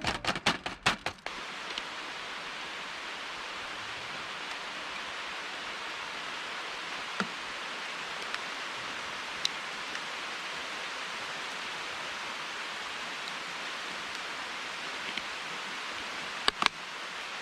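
Steady rain falling in a downpour, an even hiss, with a few sharp single drips or taps now and then.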